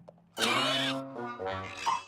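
A sick cartoon phoenix giving a loud, raspy cough-like squawk about half a second in, followed by shorter pitched calls, over background music.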